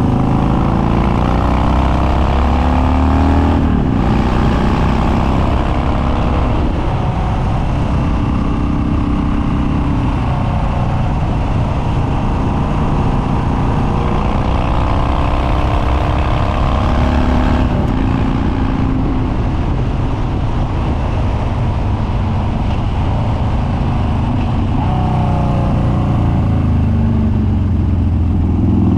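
Harley-Davidson Dyna Street Bob's Twin Cam V-twin, with Stage 2 cams and open, baffle-less upswept dual exhausts, running hard under way. The engine note climbs and falls with the throttle, with brief breaks about four and eighteen seconds in.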